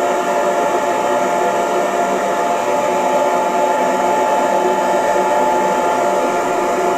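Hair dryer running steadily: an even rushing blow with a constant motor whine, no change in speed.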